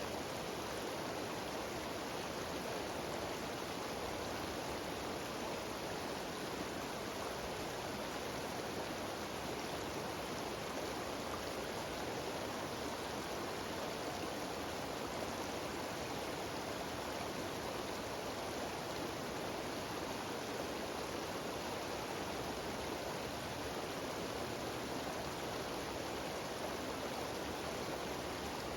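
Small mountain waterfall and stream cascading over rocks: a steady, even rush of falling water.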